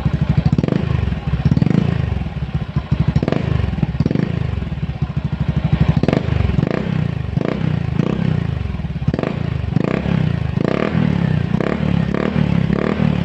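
Honda Zoomer-X's 110cc single-cylinder scooter engine running through an MT8 aftermarket racing pipe, revved in repeated short throttle blips that come quicker in the second half.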